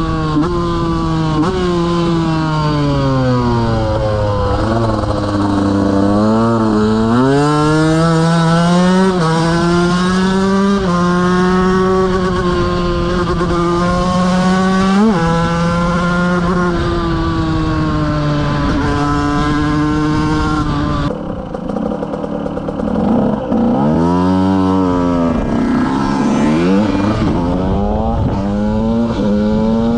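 KTM 125 motorcycle engine under way, revving up and dropping back again and again as it accelerates and shifts gear. About two-thirds of the way through the throttle closes and the revs fall, with a quick rise and fall of revs soon after, before it pulls again.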